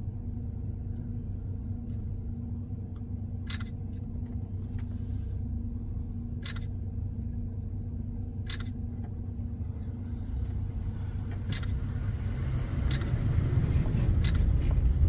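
Steady low engine hum, with a logging truck coming nearer and growing louder over the last few seconds. A few short, sharp clicks are heard along the way.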